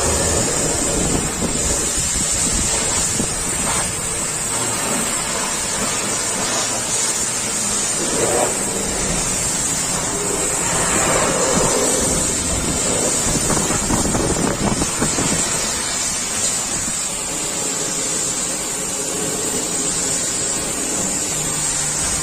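Pressure washer spraying water: a steady high-pitched hiss from the jet over a rushing splash that swells and fades as the spray moves.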